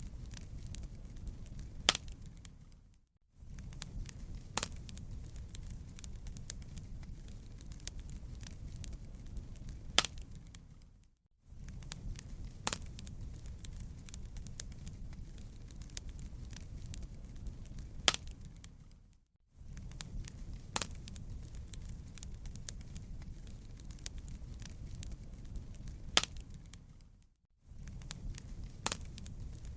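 Fireplace crackling: a steady low rumble of flames with many small snaps and an occasional loud pop. The sound fades briefly to near silence about every eight seconds and starts again, the seam of a short looped recording.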